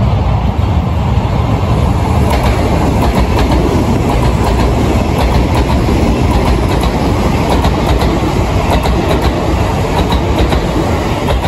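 A transfer train passes close by and loud: Sotetsu 700-series converted work cars hauling new navy-blue Sotetsu 21000-series cars. The wheels give a steady rumble with a rapid clickety-clack over the rail joints, at surprisingly fast speed. The sound cuts off suddenly near the end.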